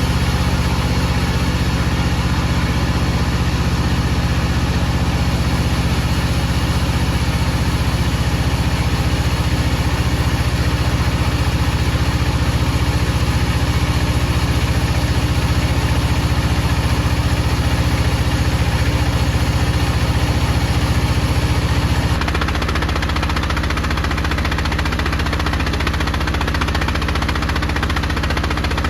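Wood-cutting saw machinery running steadily with a deep, even hum. About three-quarters of the way through, the low hum changes and drops slightly while the upper hiss gets brighter.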